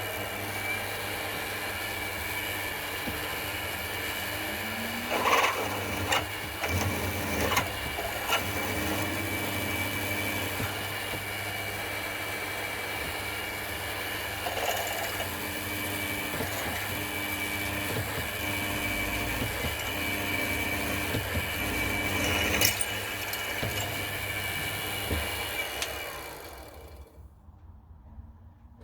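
Mini milling machine's motor and spindle running steadily with a constant whine, with a few louder, brief noises about five to eight seconds in and again near twenty-two seconds; the machine is switched off and runs down near the end.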